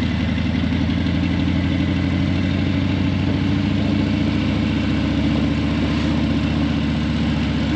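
Harley-Davidson Breakout 117's Milwaukee-Eight 117 V-twin idling steadily through Vance & Hines Eliminator 300 slip-on mufflers, a low, even pulse that holds at one speed.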